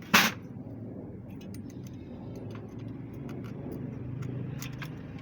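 Hand tools working on the valve gear of an engine during tappet clearance adjustment: one sharp metallic click just after the start, then scattered light ticks, over a steady low hum.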